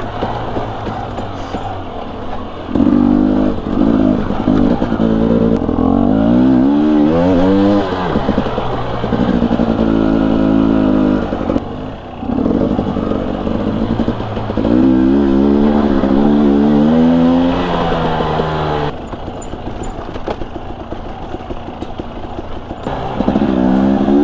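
Husqvarna TE250i two-stroke dirt bike engine on tight single track, the throttle opened in repeated bursts, its pitch rising and falling, then backed off between them, about four times.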